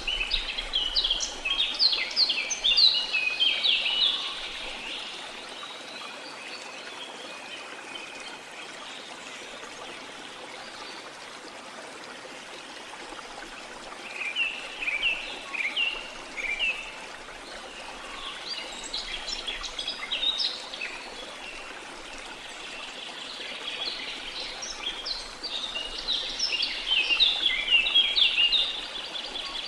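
Small songbirds singing in clusters of quick, high chirps and trills that come and go: at the start, twice in the middle and longest near the end. Beneath them runs a steady wash of sea water.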